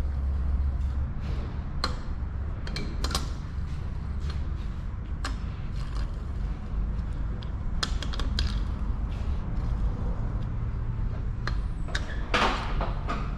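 Scattered clicks and light metal knocks of hand tools working the clutch-cover bolts on a motorcycle engine, over a steady low hum, with a longer, louder clatter near the end.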